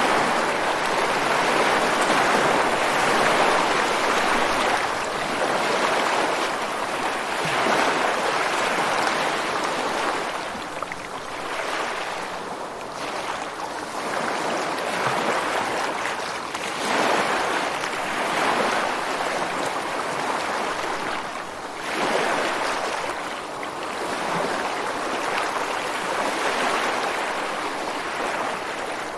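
Ocean surf breaking and washing ashore against rocks, a continuous rushing hiss that swells and eases every few seconds as each wave comes in.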